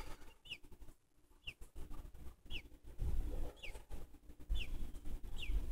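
Nestling bird peeping: short, high, falling cheeps repeated about once a second, over low rumbling handling noise.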